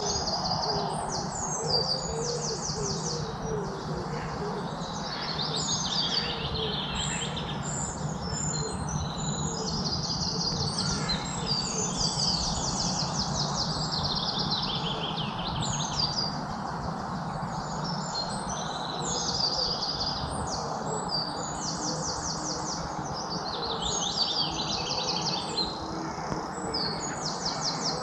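Several songbirds chirping and trilling together, with rapid repeated trills overlapping one another throughout and a few lower calls in the first seconds, over a steady background hiss.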